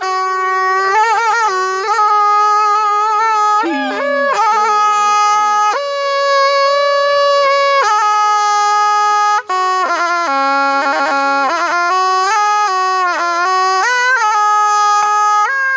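A Thai pi (reed oboe) played solo: one continuous, bright, nasal melody line with quick trills and bending slides in pitch, broken by a short gap about nine and a half seconds in.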